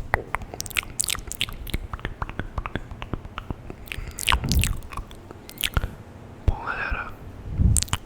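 Close-miked mouth sounds at high microphone sensitivity: irregular wet clicks and tongue and lip pops, with a few louder smacks and short breaths.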